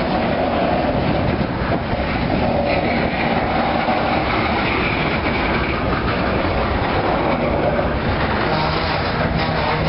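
Freight cars (covered hoppers and gondolas) rolling past at close range, a steady rumble and clatter of steel wheels on the rail joints. A faint wheel squeal rises for a few seconds in the middle.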